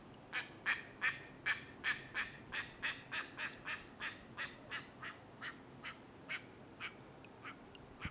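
A bird calling a long run of harsh, quacking notes, about three a second at first. The notes are loudest in the first couple of seconds, then slow and fade.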